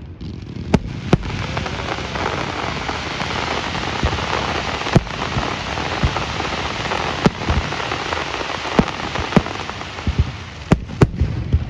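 Fireworks display: a dense crackling hiss with sharp bangs scattered through it. The crackling eases off near the end while the bangs come closer together.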